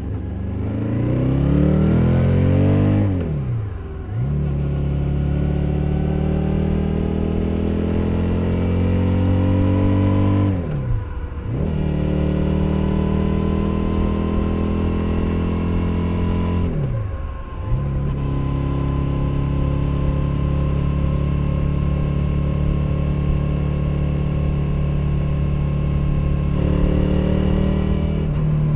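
Suzuki SV 650's 645 cc V-twin engine accelerating through the gears, picked up from under the seat. The revs rise at the start, then it upshifts three times, each shift a brief drop in sound before the engine pulls again at a lower pitch, and it ends holding a steady cruise.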